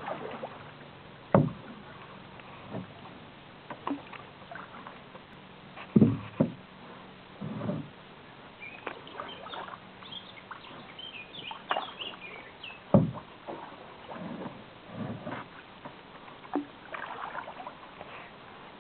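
Canoe paddle strokes: water splashing and dripping, broken by several sharp knocks, the loudest about a second in, two together about six seconds in, and one near thirteen seconds. A run of high squeaky chirps comes in the middle.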